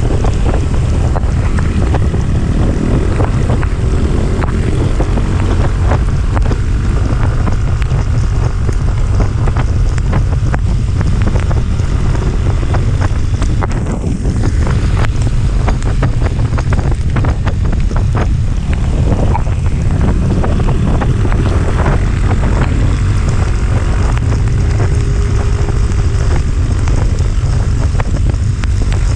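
Heavy wind buffeting on the microphone of a moving vehicle, with an engine running faintly underneath, dipping briefly about halfway through.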